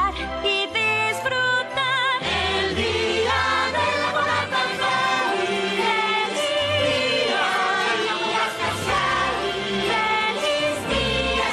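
Song music with a choir singing over instrumental backing, the voices holding long wavering notes.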